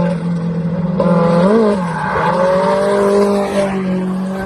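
Race car engines running at steady high revs, with a brief rise and fall in pitch about a second and a half in.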